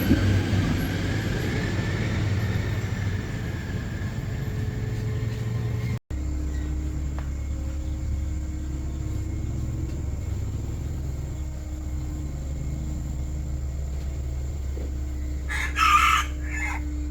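A rooster crows once, about a second long, near the end, over a steady low engine hum.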